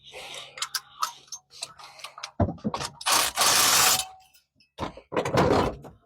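A wrench clattering against metal in a rapid ratcheting rattle. Scattered clicks come first, then two loud runs, the first about two seconds long and the second about one second.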